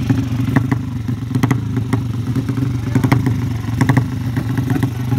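A motorcycle engine running steadily at an even pitch, with a scatter of sharp clicks and knocks over it.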